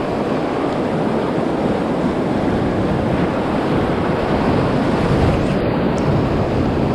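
Steady rushing of river whitewater around a raft, an even wash of water noise.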